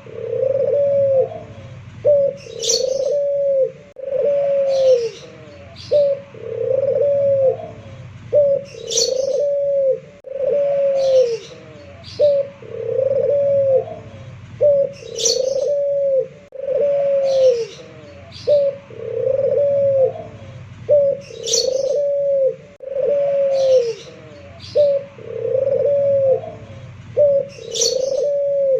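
Puter pelung (domestic ringneck dove) cooing over and over, each phrase a short note followed by a longer arching coo, about every two seconds. A high chirp from another bird cuts in roughly every six seconds.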